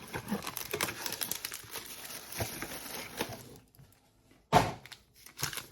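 Cardboard blaster box being opened by hand, with crackly rustling and small clicks of the packaging for about three seconds, a brief pause, then one loud short rip or knock about four and a half seconds in.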